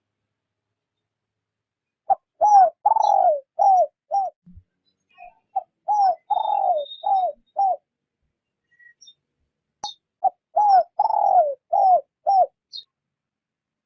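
Spotted dove cooing in three phrases, each of about five short falling notes with the second note drawn out longer. Faint high chirps sound above the coos.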